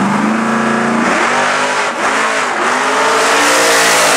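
Fox-body Ford Mustang launching hard off a drag strip starting line and accelerating away at full throttle. The engine pitch climbs, drops back at gear changes about one and two seconds in, and climbs again as the car passes.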